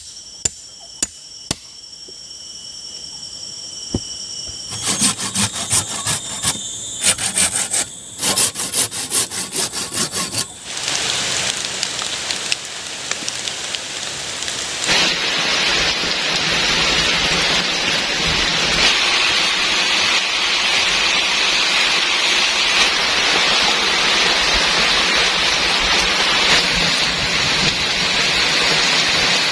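Heavy rain falling steadily, an even rushing hiss that takes over from about halfway through. Before it come a few sharp knocks and then several seconds of rapid rasping, knocking strokes of hand work.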